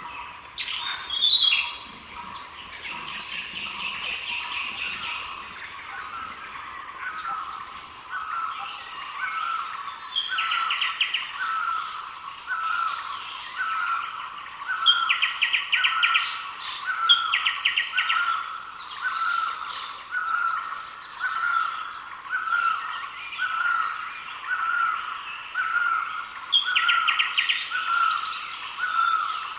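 Several wild birds calling. One repeats a short call about once a second, others give rapid trills from time to time, and a loud sharp call comes about a second in.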